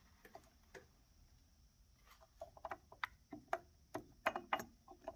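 Faint, scattered light clicks and taps of hands handling a chainsaw and its parts, nearly silent at first and coming more often from about halfway on.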